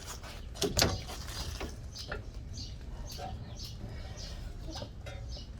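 A sharp metallic knock about a second in, then lighter clicks and faint squeaks as a strut assembly is maneuvered into a truck's front suspension.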